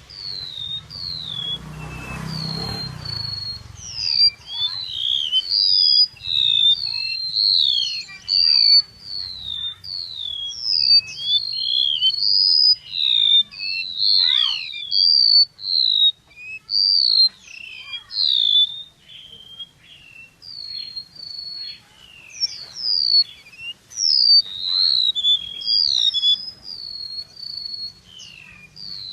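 Small songbirds (chim sâu) calling without pause: rapid high chirps and short down-slurred whistles overlapping one another. A brief rush of noise comes about two seconds in, and a faint low hum runs beneath.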